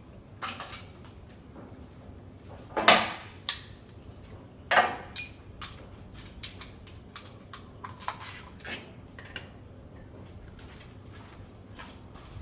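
Metal tools clinking and knocking against metal, with a few sharp knocks that ring briefly about three and five seconds in, then lighter clicks and taps.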